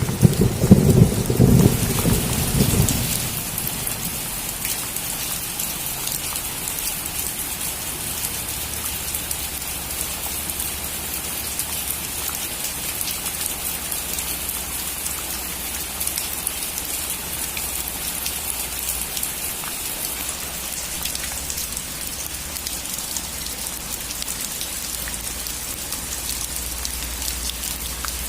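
Steady rain pattering on a roof, with a clap of thunder cracking and rumbling loudly over the first three seconds or so before the rain carries on alone.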